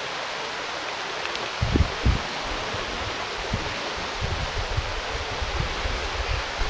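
Wind buffeting an outdoor microphone over a steady hiss, with low gusty thumps about two seconds in and more often in the second half.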